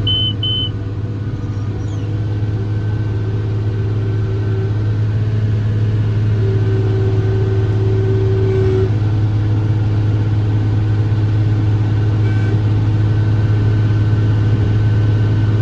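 John Deere 7410 tractor's six-cylinder diesel running steadily under load from inside the cab, pulling a round baler down the windrow. A few short high beeps sound at the very start.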